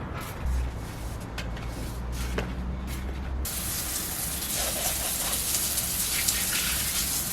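Water spraying in a steady hiss that starts suddenly about three and a half seconds in, after a low hum broken by a few clicks.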